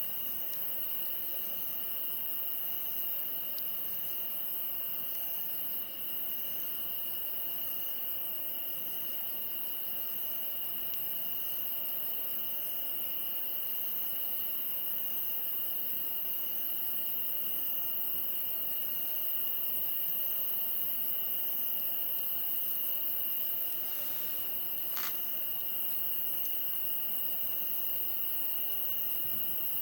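Insects chirping steadily: a continuous high trill with a fainter chirp repeating about once a second, and a single sharp click late on.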